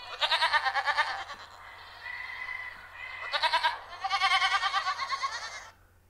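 Goats bleating: a long quavering bleat at the start, a short one past the middle, and another long quavering bleat in the second half, with a fainter, steadier call between the first two.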